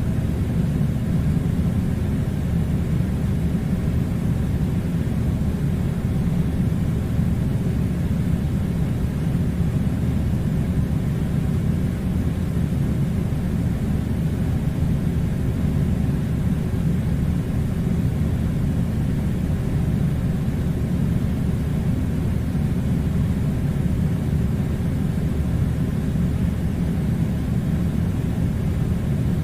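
Air conditioner running: a steady low rumbling hum that does not change.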